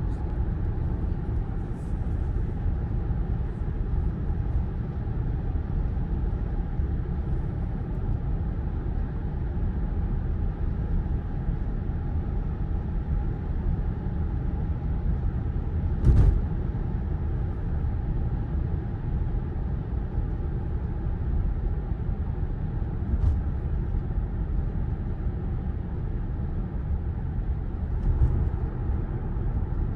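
Tesla Model Y's steady tyre and road noise at cruising speed, a low rumble with a hiss over it and no engine note. There is a single sharp thump about halfway through and two lighter ones near the end.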